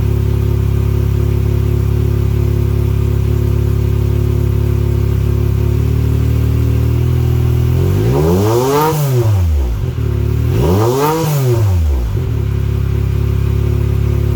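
Yamaha YXZ1000R's three-cylinder engine idling through a DIY exhaust (modified Alba SBD header, custom B-pipe and Vibrant muffler), then blipped twice in the second half, each rev rising and falling back to idle.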